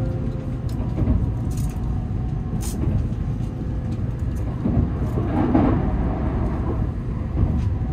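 Running noise inside the cabin of an N700S Shinkansen moving at low speed: a steady low rumble from the wheels and tracks, with a few faint clicks in the first few seconds.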